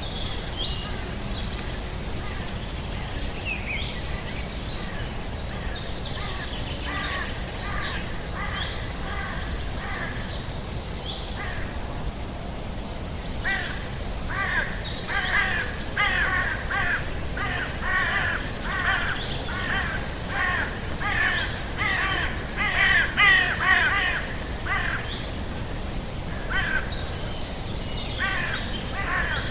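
Birds calling over a steady low background noise. The calls are sparse at first, then from about halfway come thick and fast, about two short calls a second, before thinning out again near the end.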